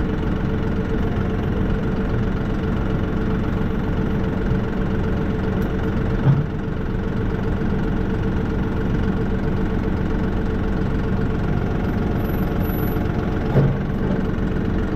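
John Deere 5075E tractor's diesel engine idling steadily, with two brief knocks about six seconds in and near the end.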